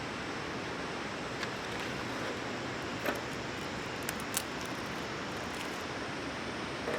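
Wood campfire crackling: a handful of sharp pops, two close together in the middle, over a steady rushing hiss.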